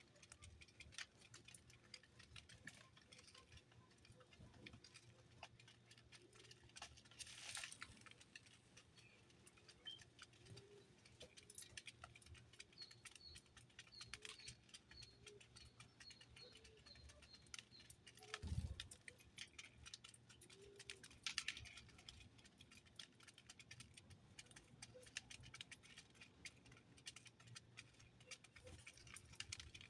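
Faint sounds of birds feeding: many small clicks from pecking and moving about, a run of soft high chirps, and a few low short calls, with one soft thump about 18 seconds in.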